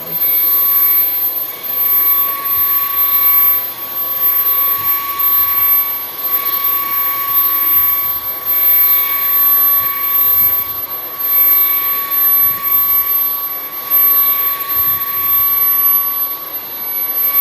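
Bissell CleanView XR Pet cordless stick vacuum running with a steady high-pitched whine, its suction noise swelling and dropping every second or two as it is pushed back and forth over a rug.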